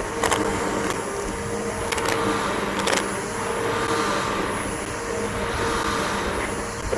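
Bissell BigGreen PowerForce upright vacuum cleaner running steadily over grass, its motor giving a steady rushing hum with a thin high whine. A few sharp clicks cut through near the start, about two seconds in and about three seconds in.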